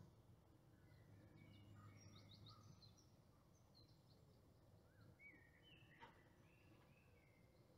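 Near silence: quiet garden ambience with faint birds chirping now and then over a low hum, and one soft click about six seconds in.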